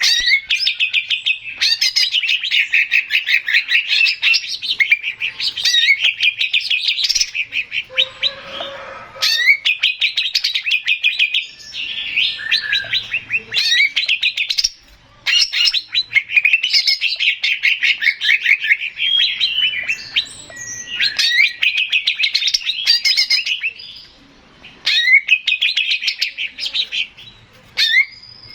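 Male green leafbird (cucak ijo) singing: long, loud phrases of fast, repeated chattering notes and trills, broken by short pauses.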